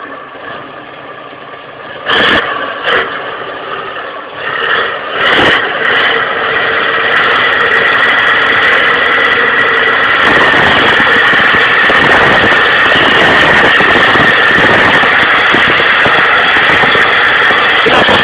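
Tractor engine running under load: a few short, loud bursts in the first seconds, then from about ten seconds in a steady, loud running with a high whine.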